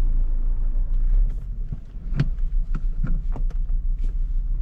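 Turbocharged four-cylinder GDI car engine running with a steady low rumble, burning off intake valve cleaner, with a few sharp clicks or knocks in the middle.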